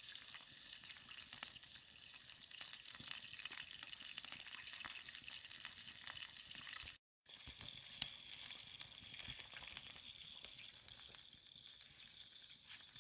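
Bacon sizzling as it fries over a campfire: a steady hiss scattered with small pops and crackles. The sound drops out for a moment about seven seconds in.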